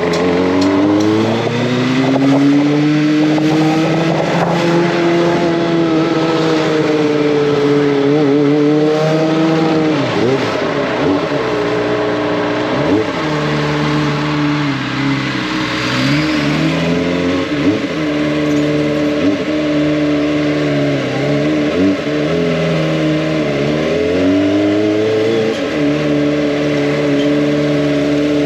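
Kawasaki ZX-25R's inline-four engine under way. The revs climb over the first few seconds, then hold fairly steady, dipping briefly and picking up again several times as the rider changes gear or eases the throttle.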